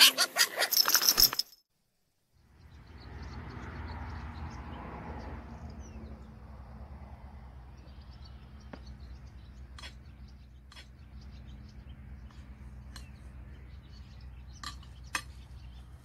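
A tinkling chime jingle ends about a second and a half in. After a brief silence, faint bird chirps, with a few sharper short calls, sound over a low steady hum, from the bird video playing on the computer.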